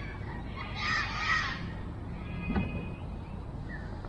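A bird gives one harsh call about a second long, with a few faint short bird chirps around it. A single sharp knock comes about two and a half seconds in, over a steady low background noise.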